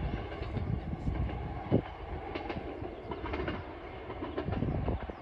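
Train running along the track, heard from inside the carriage: a steady low rumble with a few light clicks from the wheels on the rails.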